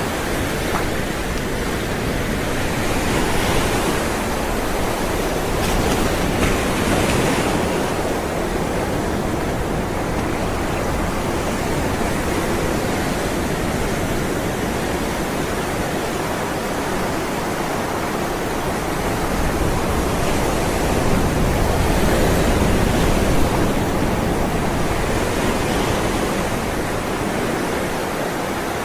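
Ocean waves rolling and breaking onto shore in a steady wash of surf, swelling a little louder twice as larger waves come in.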